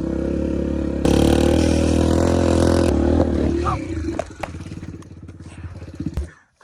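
Dirtbike engine running at steady high revs, then dropping about three seconds in to a slow, lumpy run with distinct firing pulses, and cutting out suddenly near the end as the bike stalls.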